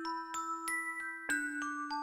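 Korg N364 synthesizer preset with a glockenspiel-like bell sound: quick chiming high notes over a held low note that steps down just over a second in.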